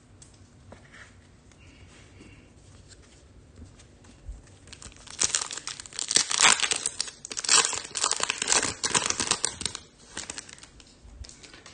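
A Topps Chrome trading-card pack's foil wrapper being torn open and crinkled by hand: faint handling at first, then about five seconds of loud crinkling and tearing from around the middle, dying away near the end.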